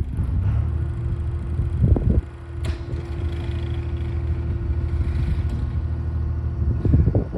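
Skid steer engine running steadily with a low rumble and a steady hum, with a clunk about two seconds in and another near the end.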